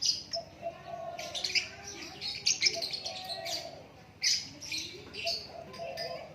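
Songbird singing a busy, varied run of sharp chirps and whistled phrases, with a lower wavering note underneath.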